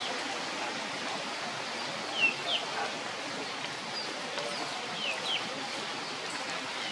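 Steady background hiss with a bird giving short, falling chirps in pairs, about two seconds in and again about five seconds in.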